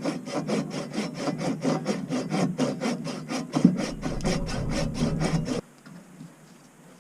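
Hand saw cutting through ABS plastic drain pipe in quick, even strokes, about five a second, stopping suddenly near the end.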